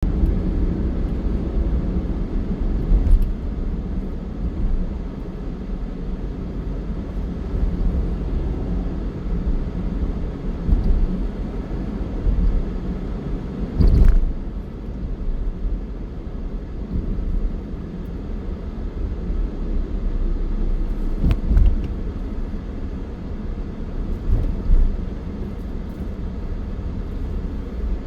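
Steady low rumble of vehicle and road noise, with a few brief louder thumps.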